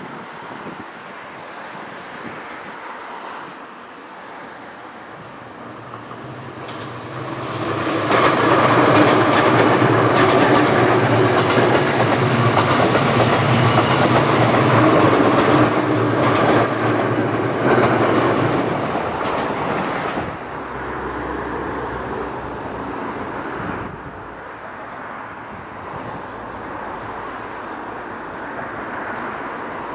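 JR Kyushu 787 series electric limited-express train approaching and running past close by at speed, the loudest part lasting about twelve seconds before it fades. Near the end, a quieter approach of the train from further off.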